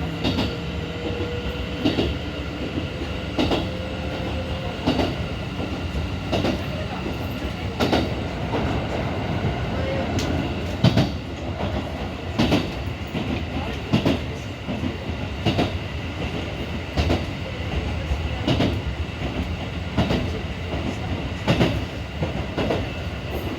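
Keikyu 1500 series chopper-controlled electric train running at speed, heard on board motor car DeHa 1521: a steady rumble with wheels clacking over rail joints about every second and a half, and a faint steady high hum.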